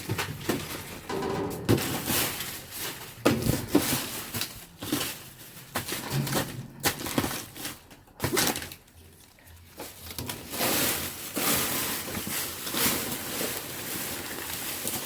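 Rummaging through dumpster trash: irregular rustling, crinkling and knocks of plastic and cardboard being moved about, with a short quieter lull about eight seconds in, then steadier rustling.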